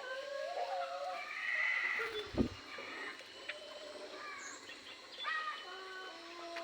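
Many aviary birds calling at once, a busy mix of short whistled chirps and wavering calls overlapping one another. A single dull thump about two and a half seconds in.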